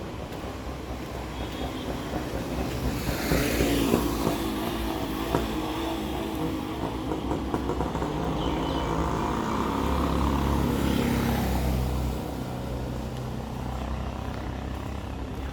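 Street traffic: motor vehicles driving past close by, one about three seconds in and a louder one with a low engine note from about eight to twelve seconds in, over steady town traffic noise.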